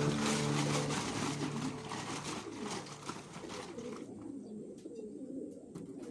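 Racing pigeons cooing in the loft, a dense, continuous warble. A steady hiss runs along with it and cuts off about four seconds in.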